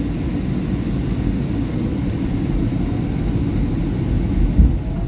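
SEPTA Market-Frankford Line train running between stations, heard from inside the car: a steady low rumble of wheels on rail, with one brief thump about four and a half seconds in.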